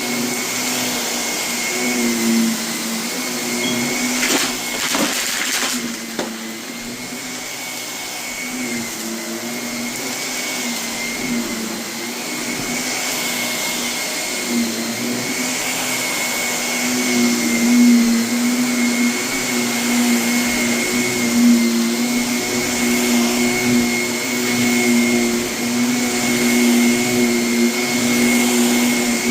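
Vacuum cleaner running steadily over carpet littered with renovation debris, its motor humming while grit is crunched and sucked up. A few sharp clicks come about four to six seconds in.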